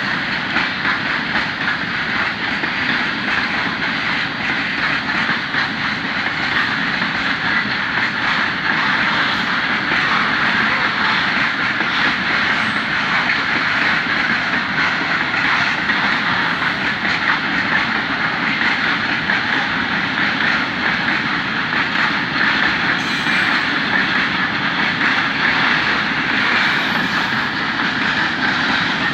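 A freight train of loaded Eaos open wagons rolling past at a steady pace, with the continuous clatter and rumble of wheels on the rails.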